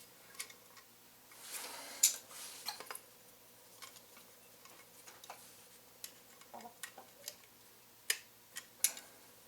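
Scattered light metal clicks and taps of small parts being handled as a pin is fitted through a motorcycle rear brake pedal linkage. A short rustle with the loudest click comes about two seconds in, and two sharp clicks come near the end.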